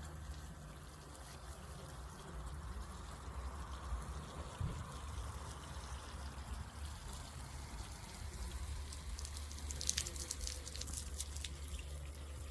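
Water trickling and splashing from a battery-powered portable camping shower, over the pump's steady low hum.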